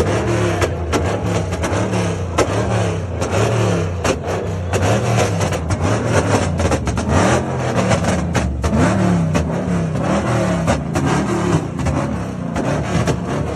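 Car engine running and being revved, its pitch rising and falling over and over.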